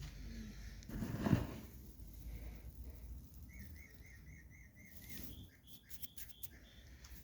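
A small bird calling in a quick, even series of about eight short chirps, after a brief rustling rush about a second in. A few sharp clicks follow near the end.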